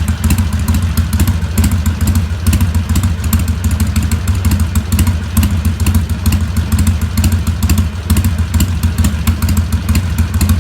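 Harley-Davidson Sportster XL883N's 883 cc V-twin idling steadily through Cycle Shack 3-inch slash-down slip-on mufflers, at an idle tuned to 800 rpm, with a deep, quickly pulsing beat.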